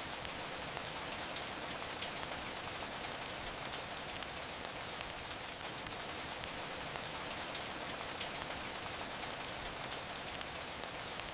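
Steady rain falling, with scattered sharp crackles and pops from a wood fire over it, a few every second or so.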